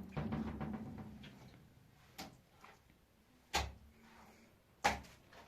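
Rustling and clattering for about a second, then three separate sharp knocks, the last the loudest, as of hard objects being set down or struck.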